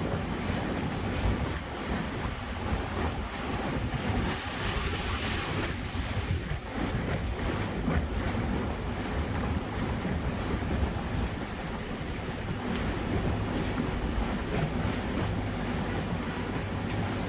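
Boat under way on the water: water rushing past and wind buffeting the microphone over a steady low hum.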